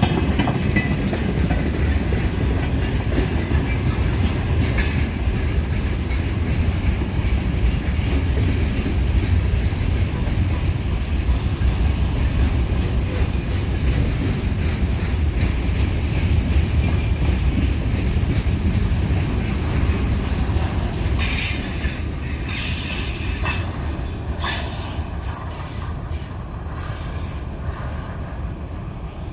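Train cars rolling past on an arriving train hauled by a 2TE10U diesel locomotive: a steady low rumble of wheels on rail, with bursts of high-pitched screeching in the last third as the train slows and the rumble eases off.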